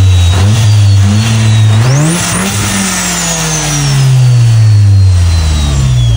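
Car engine running steadily, then revved sharply about two seconds in and left to wind slowly back down. A high whine rises and falls along with the engine speed.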